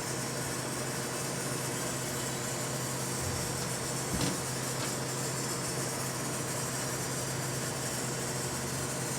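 Danby microwave oven running with a steady hum and fan noise while a mango heats inside, with one short sharp sound about four seconds in.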